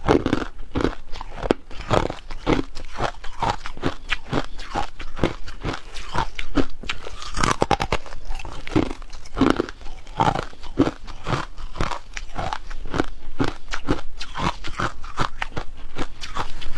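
Close-up chewing of hard ice: rapid, irregular crunches, several a second, as the ice cracks between the teeth.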